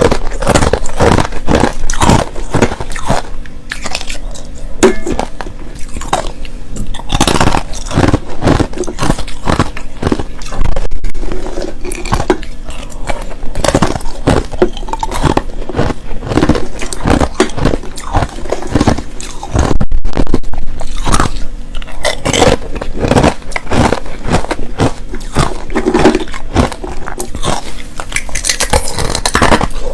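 A person biting and chewing clear ice and powdery crushed ice, close to the microphone, with rapid irregular crunches.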